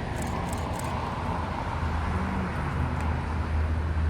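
Airbus A380's four jet engines rumbling steadily on its landing approach, a deep low roar that grows slightly louder.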